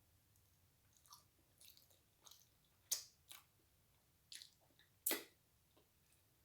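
A person chewing and biting food close to the microphone: scattered short wet clicks and smacks at irregular intervals, the loudest about three seconds in and just after five seconds.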